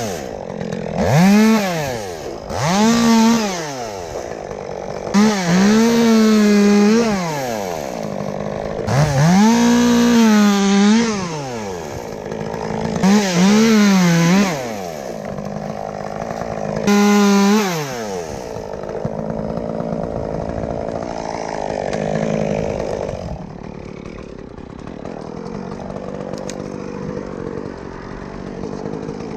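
Chainsaw cutting limbs in a sugar maple, revving up to a held high pitch and falling back about six times in the first eighteen seconds. After that it runs quieter, with no full revs.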